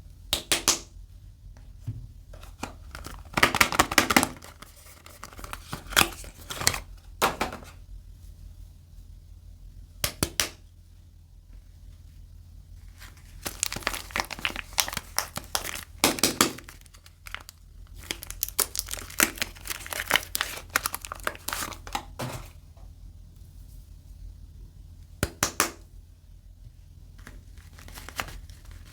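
Soap packaging being crinkled and torn open by hand, in irregular bursts of crackling with short pauses between them, over a faint low hum.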